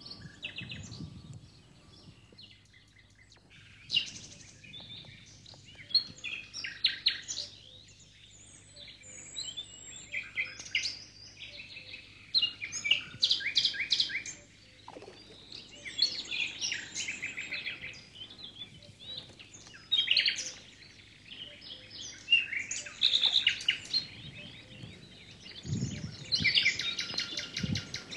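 Small birds singing, short phrases of quick repeated high notes coming every few seconds, with a brief low rumble near the end.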